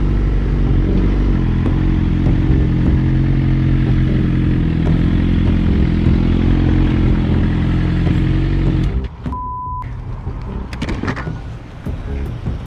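A vehicle engine running loud and steady at a constant speed, until it drops away about nine seconds in. Half a second later a single short electronic beep sounds, followed by quieter rustling noise.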